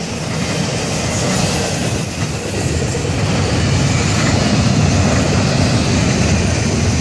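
Double-stack intermodal freight cars of a Florida East Coast Railway train rolling past close by: steel wheels running steadily on the rails, getting a little louder about halfway through.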